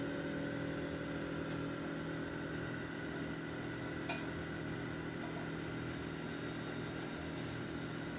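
Sliced onions sizzling steadily in hot olive oil in a frying pan on medium-high heat, over a low steady hum, with a couple of faint clicks.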